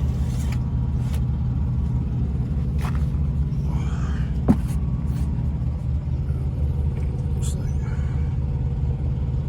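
Diesel semi-truck engine idling, a steady low engine note throughout, with a single sharp click about four and a half seconds in.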